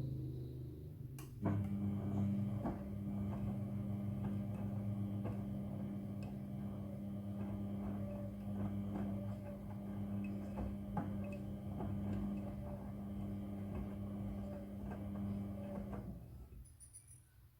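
Front-loading washing machine running: a steady electric hum with light irregular clicks starts with a click about a second and a half in, then winds down and stops near the end.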